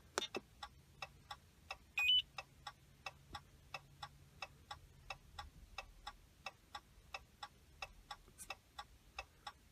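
2017 Ram 1500's hazard-flasher ticking steadily at about three ticks a second, with the ignition off and the four-way flashers on. A short electronic beep about two seconds in.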